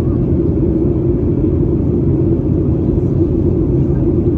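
Steady, loud cabin rumble of a Boeing 737-800 airliner, the low drone of its engines and airflow heard from a window seat.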